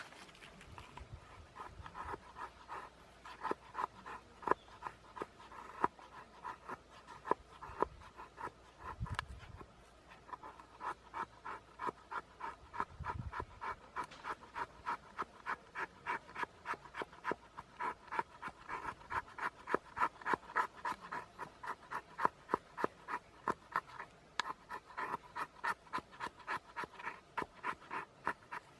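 A blade working firewood in quick, regular scraping strokes, about three a second, with a short pause near the end: the rhythmic rasp of shaving or sawing wood for the campfire.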